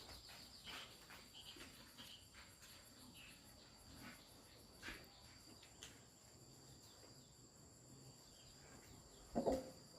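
Faint, steady high-pitched chirring of insects, with scattered soft clicks and a short louder sound near the end.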